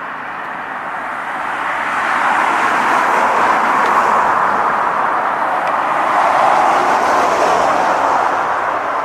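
Steady rushing noise of a passing vehicle, swelling about two seconds in and easing off near the end.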